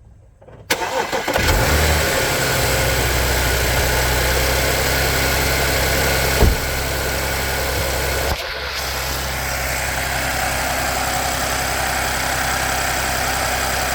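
2009 Audi A6 Avant's engine cold-started after sitting for about a week: a brief crank under a second in, then it catches and settles into a steady cold idle. A single sharp click about halfway through, and the sound drops slightly in level a couple of seconds later.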